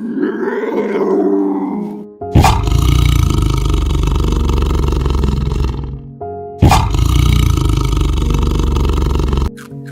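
A large animal roaring: two long, loud roars, each starting suddenly and lasting about three seconds, with a shorter rising and falling call just before them. Background music plays throughout.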